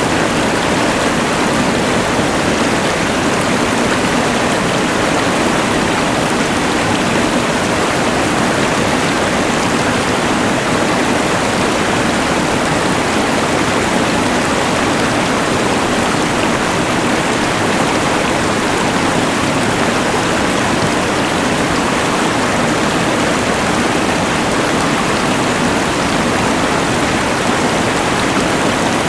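Rushing mountain river blended with the hiss of a LectroFan white noise machine: one steady, unbroken wash of water noise with no changes.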